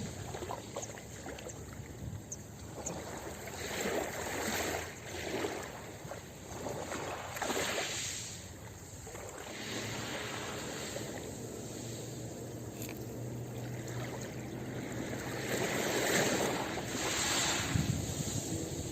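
Ocean waves washing onto a beach, the surf noise swelling and easing in repeated surges.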